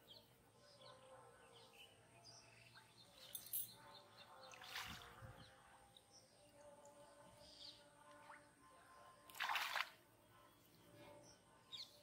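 Faint bird chirps, with a few short rushing bursts of noise: a weak one about three and a half seconds in, another near five seconds, and the loudest just after nine seconds.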